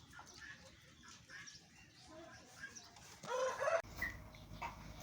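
Chukar partridges calling: a run of faint, short repeated calls, then one louder call a little after three seconds in that cuts off abruptly.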